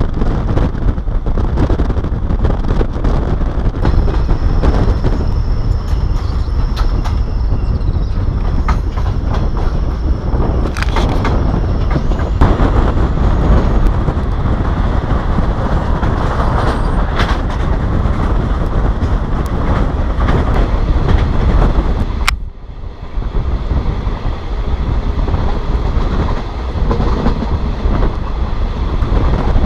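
Shosholoza Meyl passenger train running at speed, heard from aboard: a steady rumble of wheels and wind, with scattered sharp clicks of wheels over rail joints. A thin high whine sounds for several seconds in the first half, and the noise drops briefly about 22 seconds in.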